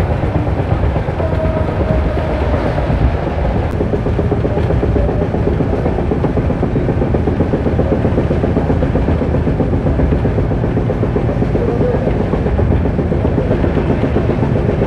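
Steady running noise of an Indian Railways sleeper coach moving along the track, heard from on board: wheels on rails with a continuous low rumble and no break.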